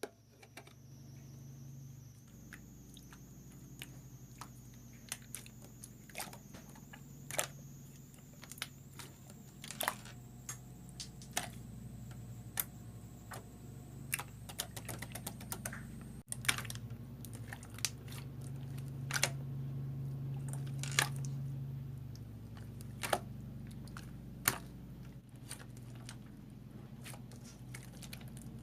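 Irregular sharp clicks and taps, several a second in places, over a steady low hum and a faint high whine.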